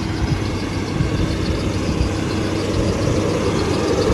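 Diesel engine of a 2020 New Holland Workmaster 75 utility tractor running steadily up close, a loud even drone.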